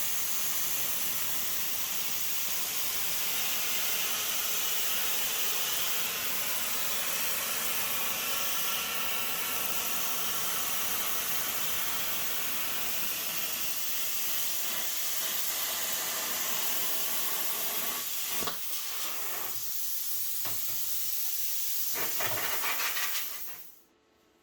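A metal-cutting tool slicing sheet steel, running with a loud, steady hiss. The hiss breaks up a few times in the last six seconds and then cuts off suddenly.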